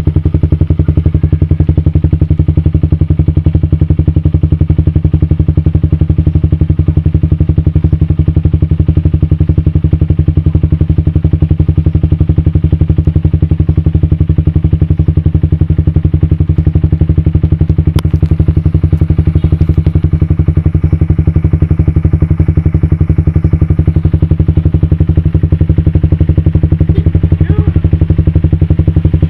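Suzuki Satria FU's single-cylinder four-stroke engine idling steadily through an aftermarket HNR racing exhaust, with a loud, even, rapid exhaust beat.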